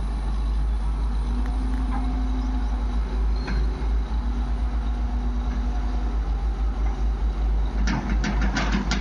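Heavy diesel engine of a backhoe loader or tractor running with a low, pulsing throb, with a steady whine rising over it twice. A burst of clattering comes near the end.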